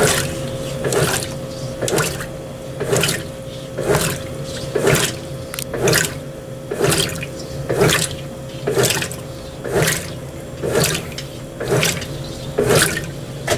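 Brastemp BWT12 top-load washing machine agitating a load of clothes in water on its turbo agitation profile: a sloshing swish about once a second over a steady motor hum.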